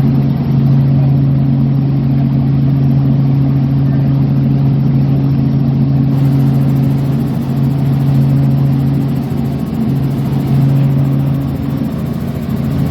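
Light aircraft engine running steadily at power, a loud, even engine hum.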